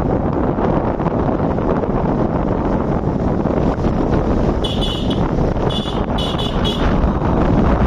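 Steady wind rush on the microphone and road noise of riding on a bike, with a high-pitched horn sounding several short toots from about five seconds in.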